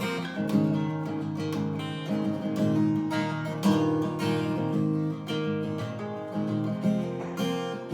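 Solo acoustic guitar strummed and picked in an instrumental passage between verses of a folk song, with chord strokes about once a second.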